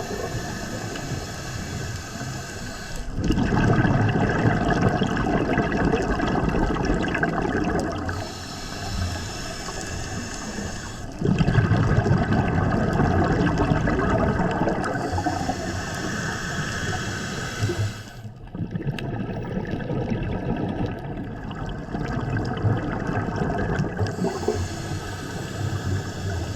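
A scuba diver breathing underwater through a regulator. Each breath in is a hissing rush through the regulator, and each breath out is a burst of low, bubbling rumble as the exhaled air leaves the exhaust valve. The breaths come slowly, about one every seven or eight seconds, with a fourth in-breath starting near the end.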